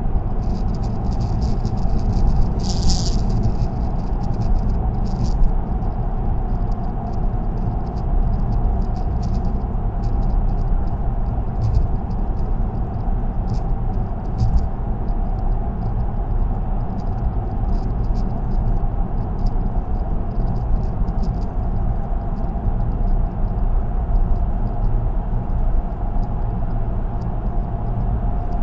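Car driving at highway speed, heard from inside the cabin: steady low tyre and road rumble. Faint high ticks and rattles come and go, most of them in the first few seconds.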